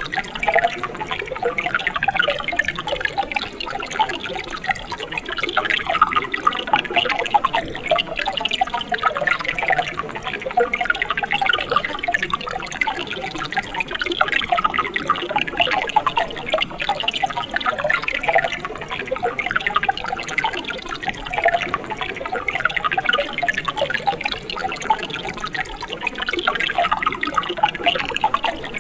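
Mountain stream running steadily, a dense, continuous babble of small splashes and bubbling water.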